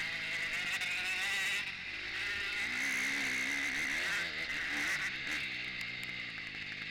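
KTM 250 four-stroke motocross bike engine ridden hard, heard from on board, its pitch rising and falling repeatedly as the throttle is opened and rolled off.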